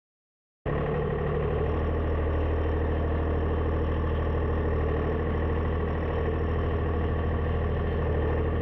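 Tractor diesel engine running steadily with a deep, even hum. It begins suddenly less than a second in.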